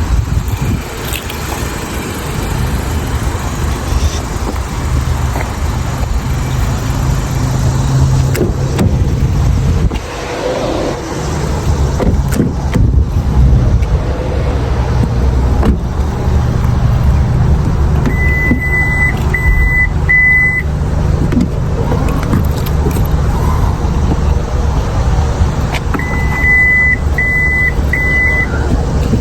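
A 2025 Acura ADX being driven slowly, with a steady low rumble throughout. Twice in the second half, the car gives a set of three short, high electronic beeps.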